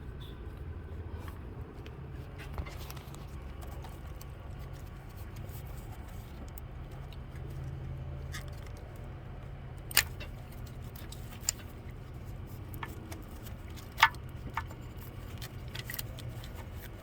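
Metal-on-metal clicks and clinks of hand work on the ignition coil wiring and fittings of a Chevrolet LT1 engine: a few scattered light ticks, with two sharp louder clinks, about ten and fourteen seconds in. A steady low rumble sits beneath them.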